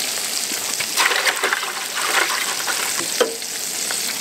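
Breaded squirrel pieces frying in a hot pan: a steady crackling sizzle with sharp pops now and then, the strongest a little after three seconds in.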